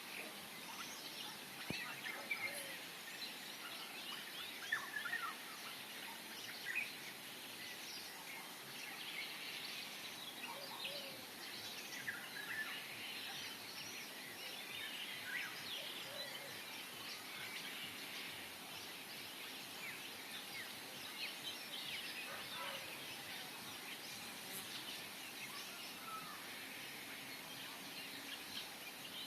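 Several birds chirping and calling, many short overlapping calls throughout, over a steady faint outdoor hiss.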